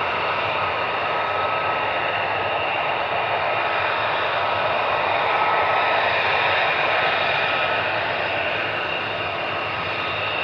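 Fighter jet engines running on the ground, a steady rushing roar with a high turbine whine in it that swells a little around the middle.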